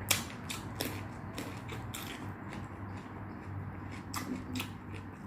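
A person eating close to the microphone: chewing with a series of sharp clicks and crunches, several in the first two seconds and a pair around four seconds in, over a steady low hum.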